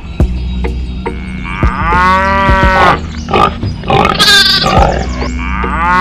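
Cow mooing twice, long calls that rise and then fall in pitch, over a steady low hum with scattered knocks.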